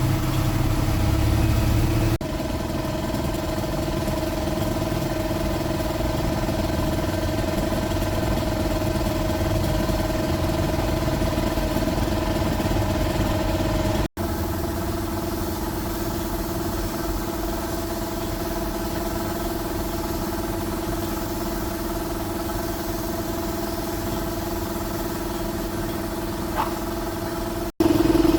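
Box truck's diesel engine idling steadily with an even hum, broken by a few abrupt cuts where clips are joined.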